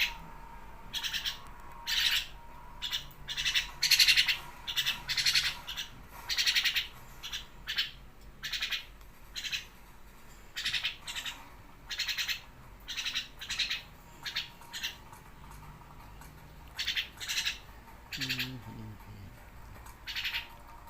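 Myna giving short, harsh squawking calls again and again, one or two at a time with gaps of about a second between them. A brief lower-pitched sound comes near the end.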